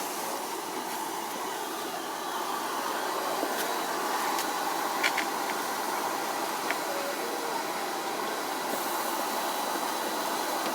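Steady whooshing noise of a running machine at a car wash, with a few light clicks.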